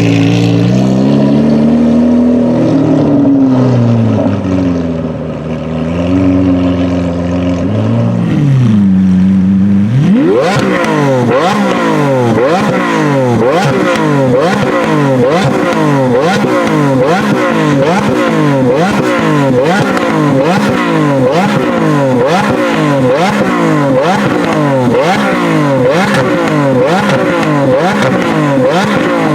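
Lamborghini Aventador V12 engine revving, its pitch swinging up and down. About ten seconds in it changes to a steady run of short rising sweeps, repeating about once a second.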